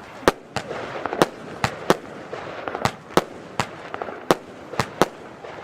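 FireEvent Vario Gigant F2 firework battery firing, a string of sharp bangs at two or three a second, unevenly spaced.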